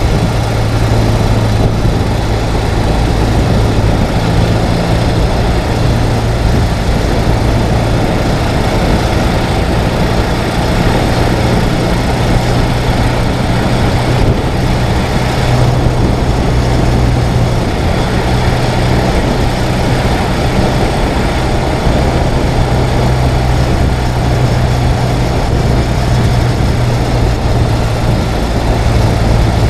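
Ural sidecar motorcycle's flat-twin engine running steadily, with a steady rush of wind and road noise.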